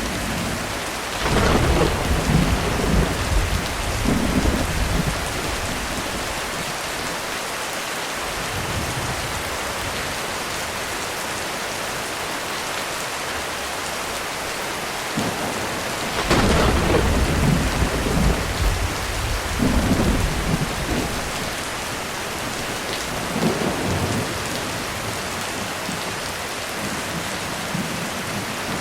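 Heavy rain falling steadily on a roof, with two rolls of thunder. One breaks suddenly about a second in and rumbles for several seconds. The other breaks just past the middle and rolls on for about five seconds, followed by a fainter rumble.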